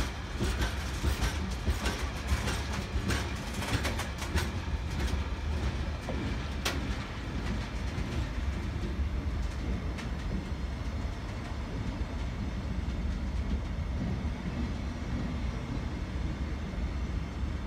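Engineering train's freight wagons, some loaded with concrete sleepers, rolling past with a steady low rumble and wheels clattering over the rail joints. The clatter is busiest at first and thins out after about seven seconds.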